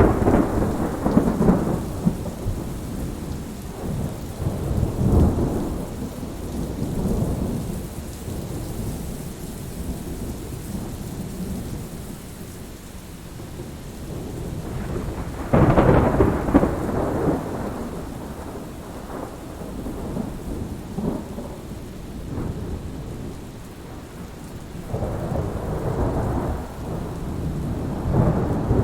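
Thunderstorm: steady rain with rolling thunder. The thunder rumbles at the start, peals loudest about fifteen seconds in, and swells again near the end.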